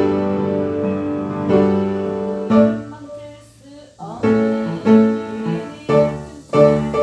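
Piano playing sustained chords and melody notes; it drops away to a faint stretch about three seconds in and comes back with fresh notes about a second later.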